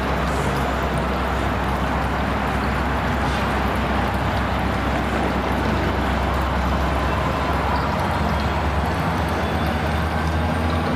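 Diesel-hauled commuter train passing: a steady rumble of engine and wheels on the rails, its low hum changing about eight seconds in.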